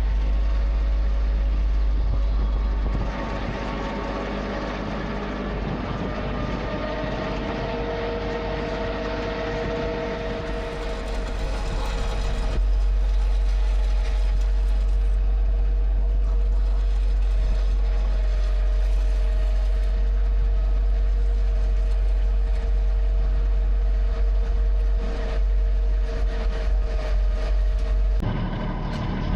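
Compact tractor running steadily under load while it drags a three-point landscape rake through snow, a constant engine drone with a steady whine over a heavy low rumble. The sound changes abruptly near the end.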